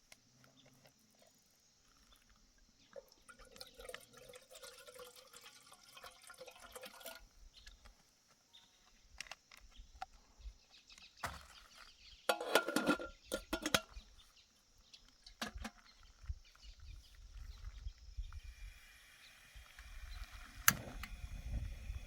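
Liquid being poured for a few seconds, then a burst of clinking and clattering about halfway through, and a low rumble near the end.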